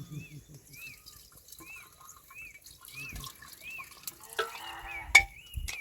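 Short high chirping notes repeat about every half second. About four and a half seconds in, an animal bleats briefly, followed by a sharp knock.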